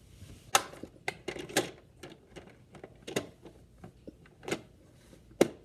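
Irregular sharp clicks and knocks of hard plastic toy parts being handled, from a Play-Doh Kitchen rising-cake toy oven set.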